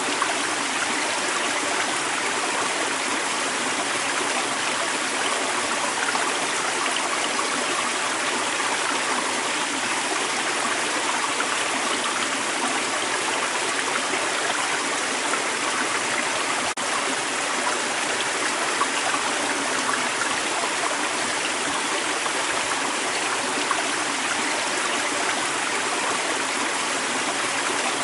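A creek's running water, flowing and splashing steadily without letup.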